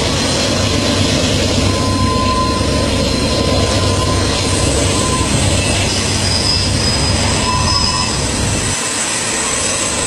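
A train's coaches rolling past: a loud, dense rumble, with thin, high wheel squeals coming and going above it. The deep part of the rumble drops away near the end.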